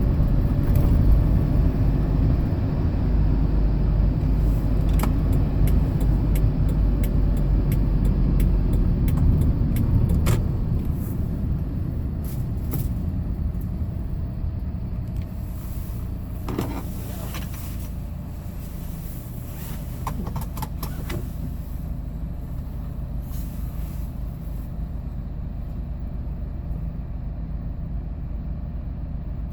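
Hyundai Porter II truck's engine and road noise while driving, loudest for the first ten seconds and then easing down to a quieter, steadier low hum as the truck slows, with a few light clicks and rattles in the middle.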